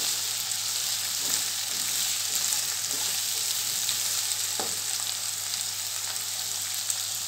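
Eggplant pieces and onion sizzling in hot oil in a non-stick pan. A spatula stirring them gives a few light scrapes.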